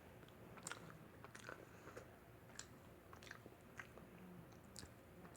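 Faint, close-miked chewing of a slice of pepperoni pizza, with several short, wet mouth clicks spread about every half second to a second.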